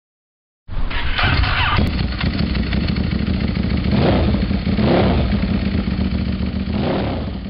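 Ducati 1198's 1198 cc L-twin engine running through an aftermarket exhaust. It idles with a steady low beat and is blipped up in rev several times: a sharp rise about a second in, then short rises around the middle and again near the end.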